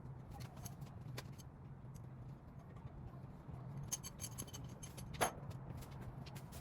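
Light metallic clicks and clinks of engine parts and tools being handled, the sharpest about five seconds in, over a steady low hum.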